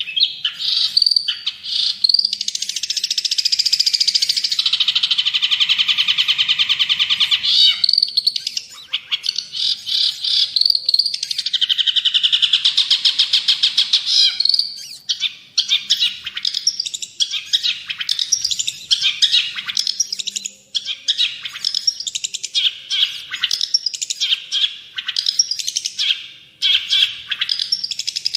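Long-tailed shrike (cendet/pentet) singing a loud, rapid, varied chattering song. It includes two long rattling trills, one a few seconds in and one around the middle, between fast choppy phrases.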